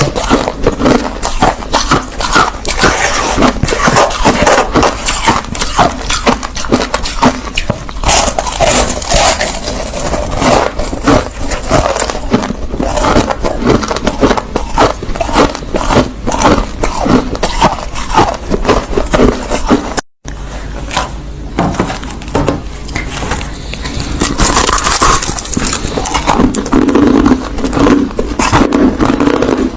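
Crushed ice being chewed, a dense run of crunching and crackling bites, broken by a very short silent gap about two-thirds of the way through.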